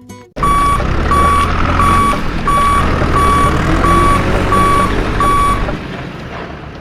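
Truck reversing alarm beeping eight times at a steady pitch, about one and a half beeps a second, over a low engine rumble; both stop shortly before the end.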